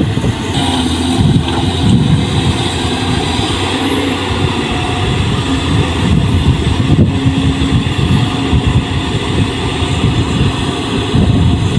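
Diesel engine of heavy farm machinery running steadily, with a rough, irregular clatter underneath.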